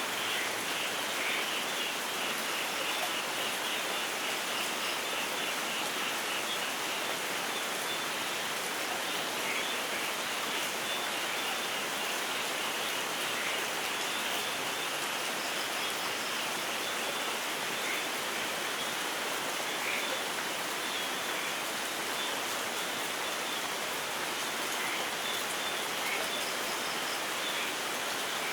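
Steady light rain falling, with short bird chirps now and then.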